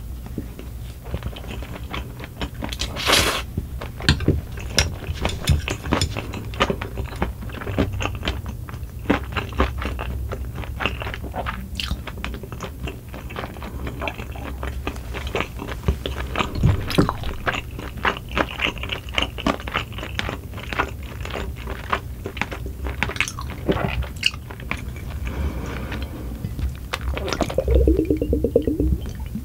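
Close-up chewing of a mouthful of pork-cartilage rice, with many short sharp crunches. Near the end come gulps of a drink.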